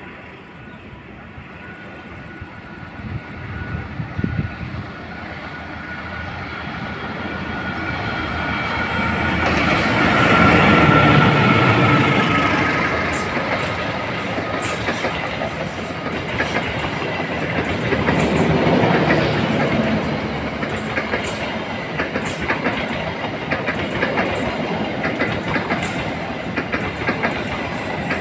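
A train approaching and passing, growing louder over the first ten seconds or so, with a faint falling tone. Its passage then settles into a steady run with repeated sharp clicks from the wheels on the rails.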